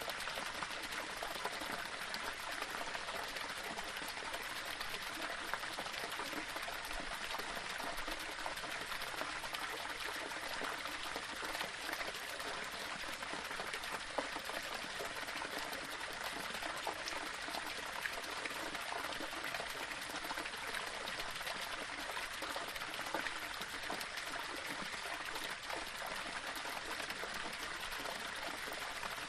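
Small waterfall of water running and splashing over rocks, a steady even rush with light splashy trickles.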